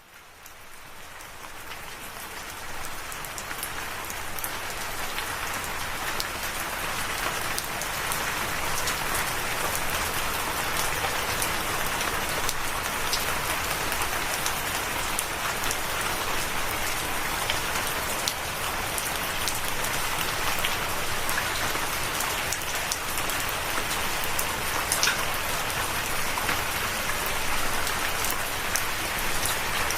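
Steady rain falling, an even hiss of rain with scattered sharper drop ticks. It fades in out of silence over the first few seconds, then holds steady.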